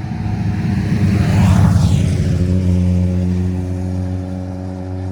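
A heavy lorry drives past close by, loudest about a second and a half in, followed by a steady low engine hum.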